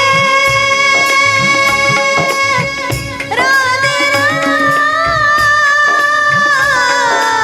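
Devotional kirtan music: a long-drawn sung note, held and then sliding into a new pitch about three and a half seconds in, over a steady pattern of hand-drum strokes.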